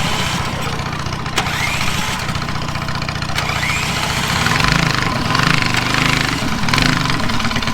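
Mini bike's small engine running just after a cold start without choke, its speed swelling briefly about four times in the second half.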